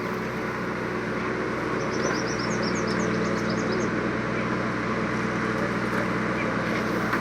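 Powertrac 50 tractor's diesel engine running steadily. A run of short high chirps sounds about two to four seconds in.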